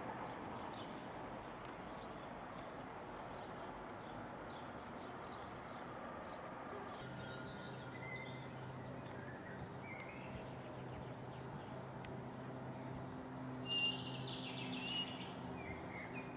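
Birds chirping and calling over steady outdoor background noise, with the loudest calls near the end. A steady low hum joins about halfway through.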